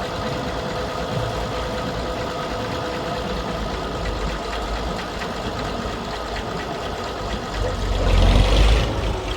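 Perkins P6 six-cylinder diesel of a Fordson E27N tractor running steadily, briefly louder about eight seconds in.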